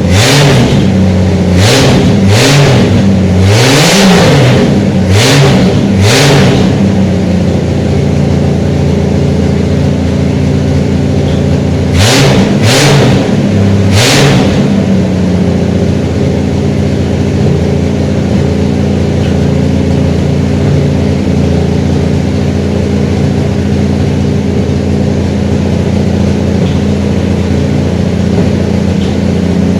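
Liquid-cooled engine running on a freshly rebuilt carburetor, revved up and down repeatedly by throttle blips over the first seven seconds, blipped about three more times around twelve seconds in, then settling into a steady idle.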